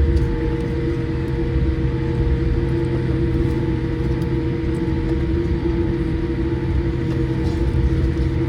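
Cabin noise inside a Boeing 787-8 taxiing: a steady low rumble with a few steady hum tones over it, unchanged throughout.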